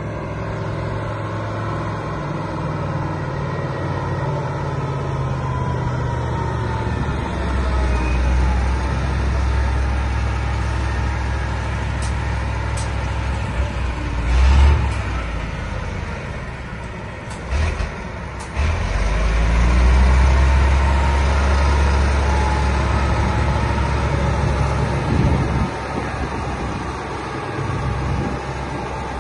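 V10 diesel engine of a MAN KAT 8x8 truck running with a deep, continuous rumble that swells louder a quarter of the way in and again past the middle, with a short louder burst about halfway.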